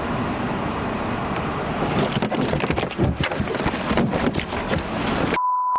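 Steady vehicle noise, then from about two seconds in a run of irregular clicks and knocks. Near the end the sound cuts out to a short steady beep.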